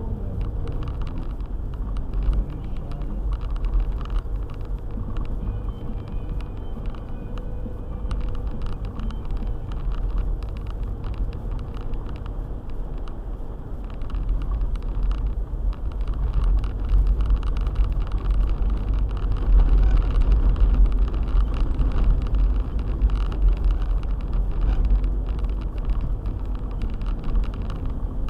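Car driving: a steady low rumble of engine and road noise, getting louder a little past halfway.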